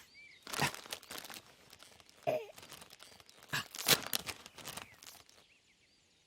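Crinkling and rustling in several short bursts, like something being handled and unwrapped.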